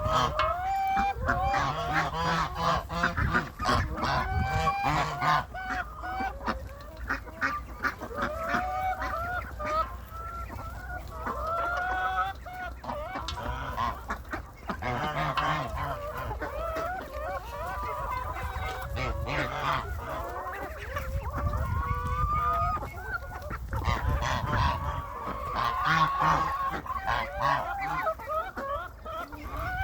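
A flock of farm birds calling over and over, many short calls that rise and fall in pitch and overlap one another, over a low rumble.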